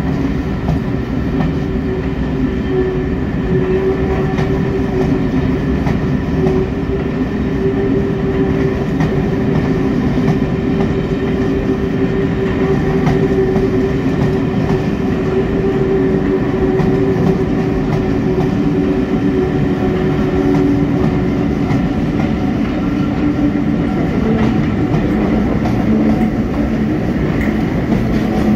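Northern Belle train of Pullman coaches rolling slowly past a platform, wheels clattering over the rail joints, over a steady diesel engine drone whose note changes about three-quarters of the way through.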